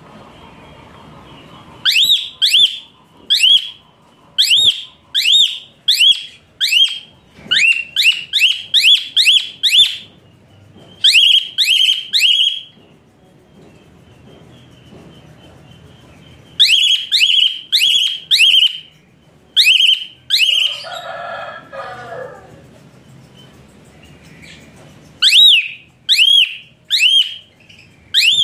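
A bird calling in bursts of loud, identical upward-sweeping whistled notes, two to three a second, with pauses between the bursts. About two-thirds of the way through, a lower warbling call is heard briefly.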